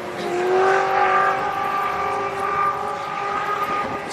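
A drift car's engine held at high revs on the track, its pitch climbing slightly as it gets louder about half a second in, then easing off near the end.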